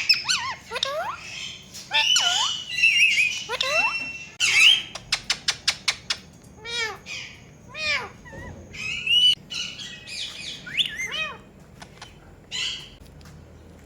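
Pet parrot squawking and calling over and over in short calls that sweep up and down in pitch. About five seconds in there is a quick run of about ten sharp clicks.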